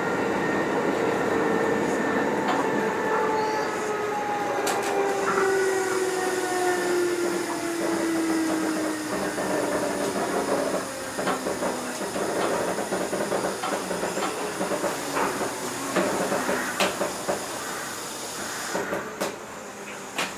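Kintetsu 2430-series electric train heard from on board as it slows: the motor and gear whine falls steadily in pitch over the first half. It then gives way to rattling and scattered knocks as the running sound grows quieter toward a stop.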